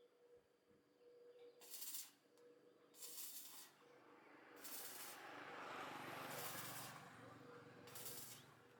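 Short hissing sprays, about five bursts each lasting under a second, with a low steady hiss between them.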